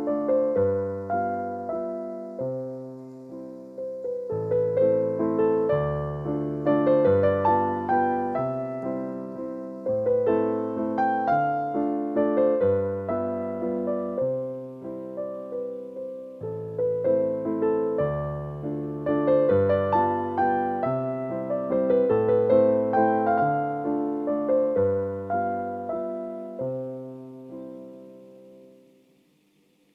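Background piano music, a slow, gentle melody over a repeating chord pattern, fading out near the end.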